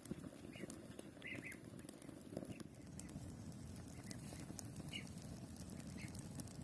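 Small birds chirping now and then, short high chirps, over a faint, steady low crackling background.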